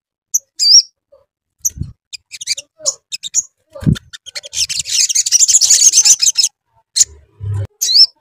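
Sogon (sogok ontong) bird singing: scattered high chirps and gliding whistles, then a dense, rapid chattering trill about halfway through. A couple of low thumps come in between.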